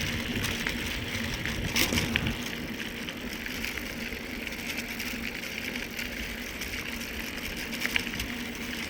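Mountain bike rolling along a trail, heard from the rider's handheld phone: steady tyre and riding noise, with a low rumble that eases after about two seconds and a couple of sharp clicks, about two seconds in and near the end.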